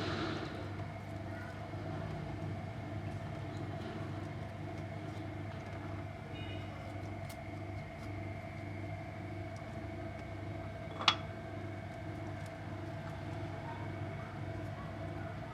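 Steady mechanical hum with a soft, regular pulsing, and a single sharp click about eleven seconds in.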